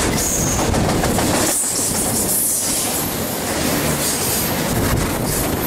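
Double-stack container freight cars rolling past at close range: a steady, loud rumble and clatter of steel wheels on rail, with a brief high squeal just after the start.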